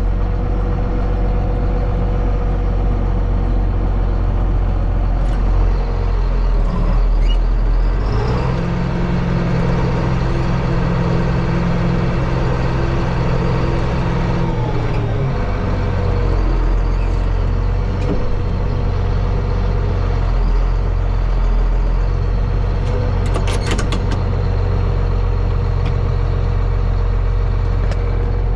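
John Deere 4555 tractor's six-cylinder turbo diesel running steadily under way on the road, with the engine note shifting for several seconds partway through.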